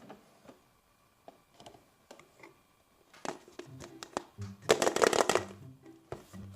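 Hands handling small plastic toys: a string of light clicks and rustles, with a louder burst of rustling about three-quarters of the way through. Background music with a steady beat comes in partway.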